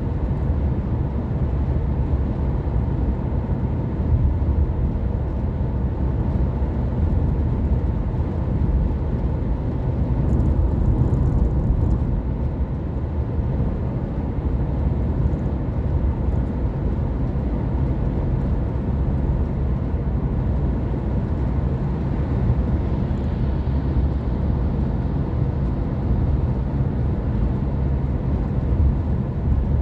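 A car driving along at steady speed: a continuous low engine hum mixed with tyre and road noise, swelling slightly about a third of the way in.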